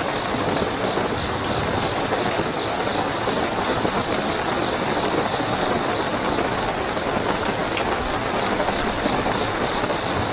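Steady heavy rainfall, with crickets chirping in a continuous high trill over it.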